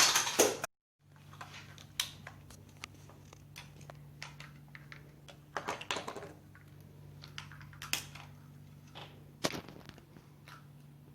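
Scattered light clicks and taps of a plastic toy and its packaging being handled, over a steady low hum.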